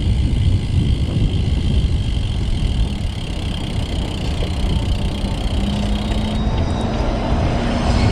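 Steady wind rush and road noise from riding a road bike, heaviest in the low rumble. A low steady hum joins about five and a half seconds in.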